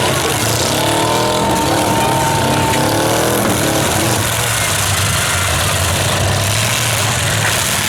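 Demolition derby cars' engines revving, several rising and falling at once during the first half, over a steady low engine drone and loud noise.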